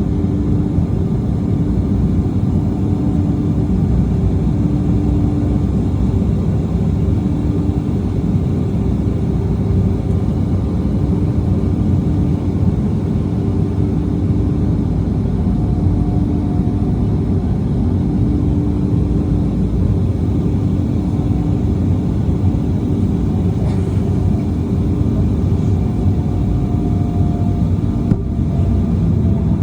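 Steady cabin noise inside an Embraer E190 jet airliner: a low rumble of the engines and airflow, with a faint hum that comes and goes.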